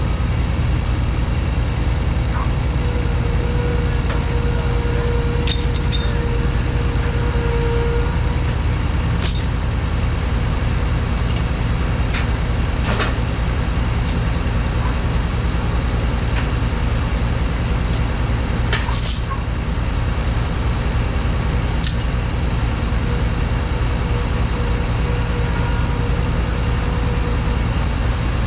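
Heavy diesel engine of a self-propelled forage harvester running steadily, with a few sharp clinks and rattles scattered through it.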